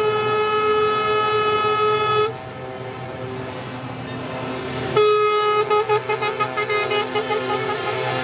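Truck air horns blowing: a long steady blast for about two seconds, engines running under a lull, then another blast about five seconds in that breaks into a run of short toots.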